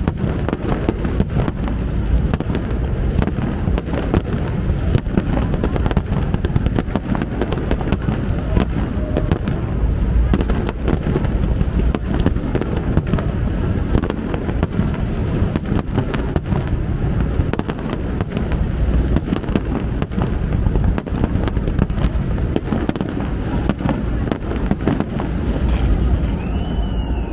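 Large fireworks display going off in a dense, continuous barrage of booming bursts and crackles, with no let-up.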